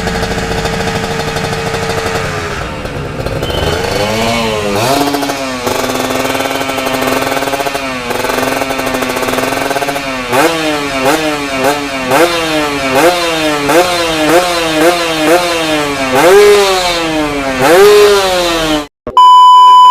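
Two-stroke motorcycle engine breathing through a Corse Project racing exhaust with expansion chamber, idling and then revved, first in slower sweeps and then in a quick series of about ten sharp throttle blips, each rising and dropping back. It cuts off near the end into a short steady electronic beep.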